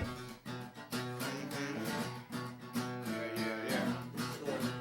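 Acoustic guitar strummed in a steady rhythm, playing an instrumental passage between sung lines.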